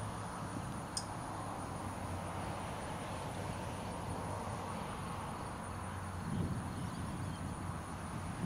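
Steady outdoor background noise, a low rumble and hiss, with a faint high steady tone throughout and one short click about a second in.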